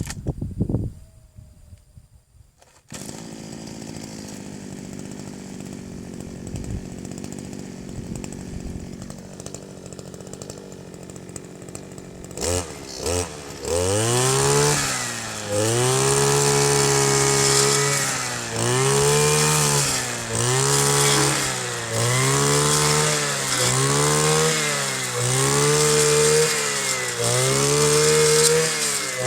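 Kioritz 260 brush cutter's small two-stroke engine idling steadily, then revved high and let back down over and over, about every second and a half.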